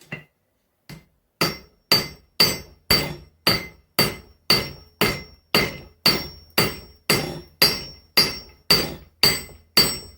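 Hand hammer striking hot spring steel on the edge of an anvil: after a couple of light taps, a steady run of about two blows a second, each with a bright metallic ring. The edge is being scarfed, bevelled down to a point, ready for forge welding.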